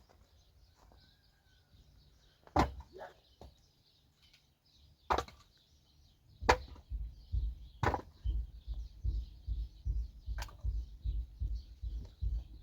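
Five sharp knocks a second or two apart, like chopping, and from about halfway a fast, even run of dull low thumps, about three a second.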